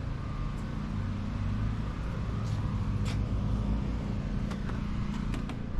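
Car engine idling with a steady low hum, with a few faint clicks.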